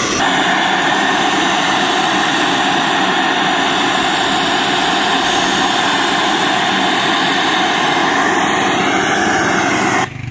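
Loud, steady test noise blasted through a large carnival sound-system speaker stack during a sound check, cutting off suddenly near the end.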